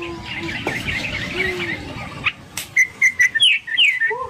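Bird chirping: a twittering run of calls, then a louder series of short chirps and falling whistled notes about three seconds in.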